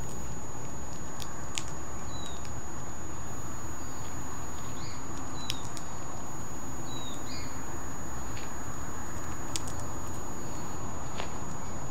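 Australian king parrot cracking and husking sunflower seeds in its beak: sparse sharp clicks a few seconds apart over a steady background hiss, with short falling high chirps every second or two.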